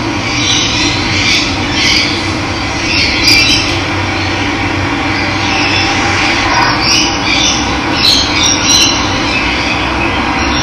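Steady rush of running water with wild birds calling over it now and then.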